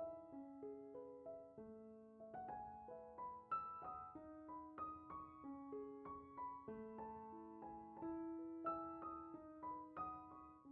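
Soft background piano music, a gentle melody of single struck notes.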